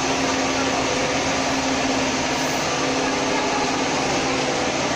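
Vacuum frying machine running steadily: an even mechanical hiss with a constant low hum.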